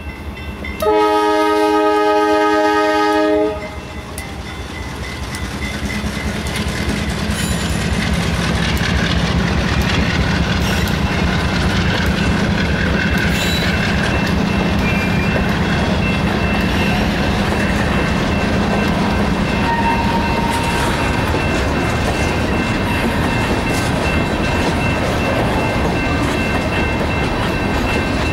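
A GE B39-8 diesel locomotive's horn sounds one long blast of about two and a half seconds as it reaches the crossing, the end of its crossing signal. Then the locomotive's engine rumbles past and a freight train of open-top hopper and gondola cars rolls through with steady wheel-on-rail noise. The crossing's electronic bell rings faintly underneath.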